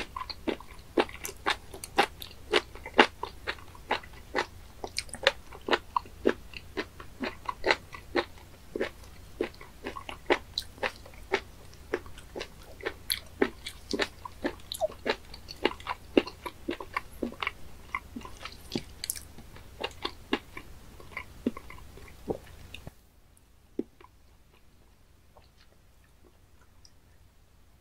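Close-miked chewing of raw spoon worm sashimi: a steady run of sharp mouth clicks, about two to three a second. The chewing stops about 23 seconds in, leaving only a few faint clicks.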